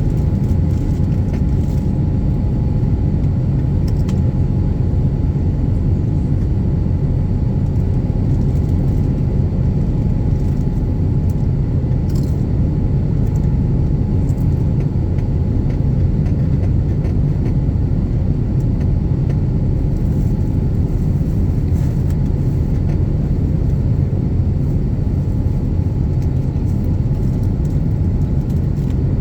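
Steady low cabin rumble of an Airbus A350-900 under way, its Rolls-Royce Trent XWB engines and airflow heard from inside the passenger cabin, with a faint steady tone above the rumble. The level holds even, with no rise or fall.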